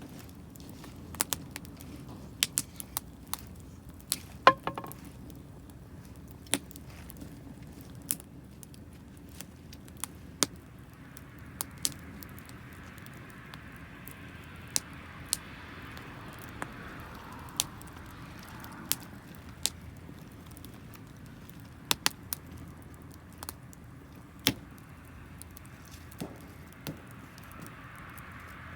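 Campfire of damp firewood crackling, with sharp irregular pops and snaps. A soft hiss comes in about halfway through.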